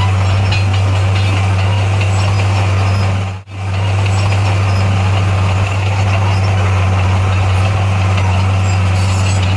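D58A bulldozer's diesel engine running with a steady low drone. The sound cuts out for a split second about three and a half seconds in, then carries on unchanged.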